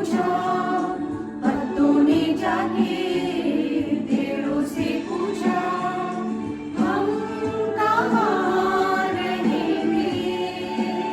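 A choir of voices singing a song together over a steady held low note.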